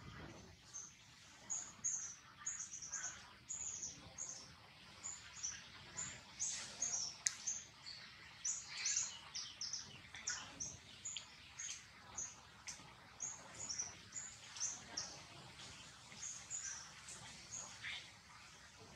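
Small birds chirping: short, high calls repeating a couple of times a second, with softer calls mixed in beneath.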